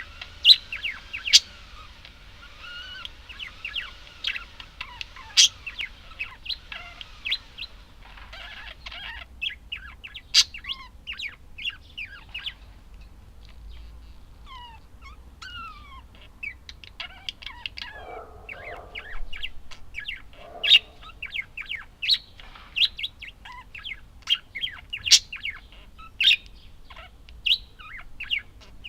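Budgerigars chirping and chattering: a dense run of quick, sharp chirps and short sweeping whistles, with a few rougher, lower calls about two-thirds of the way through.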